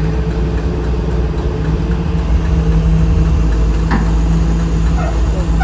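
Heavy engine idling with a steady low hum.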